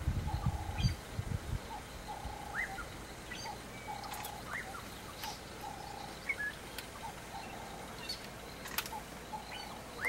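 Birds calling in the bush: one repeats a short, level note about once a second, with a few brief higher chirps in between. A low rumble fades out in the first second and a half.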